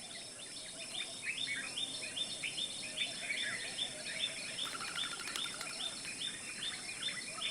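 Forest ambience: a bird repeats a short chirping call about three times a second over a steady high insect hiss.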